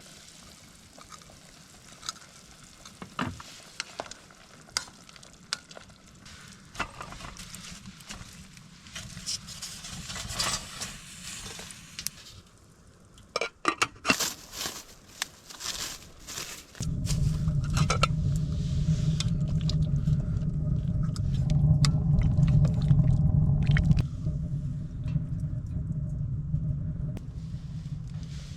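Light clinks and scrapes of cookware and utensils. About seventeen seconds in, a steady low hum starts suddenly and becomes the loudest sound, easing somewhat a few seconds before the end.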